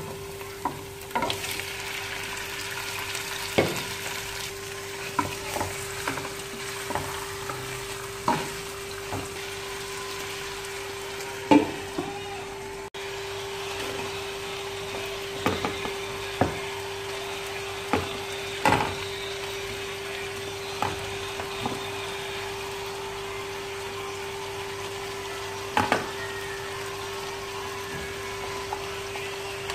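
Chicken pieces sizzling as they fry in a pot with onion and garlic, under frequent sharp knocks and clinks of a utensil against the pot as it is stirred. A steady hum runs underneath.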